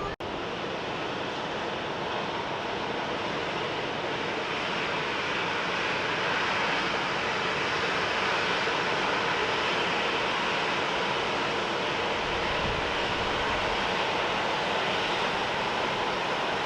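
Jet airliner engines making a steady broad roar, growing a little louder about six seconds in.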